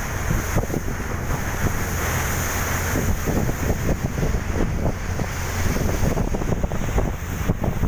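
Fast passenger boat under way: a steady low engine drone with rushing water, and wind buffeting the microphone.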